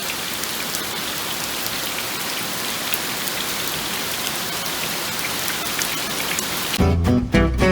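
Steady rain falling, an even hiss with scattered drops ticking. Near the end it cuts suddenly to acoustic guitar music.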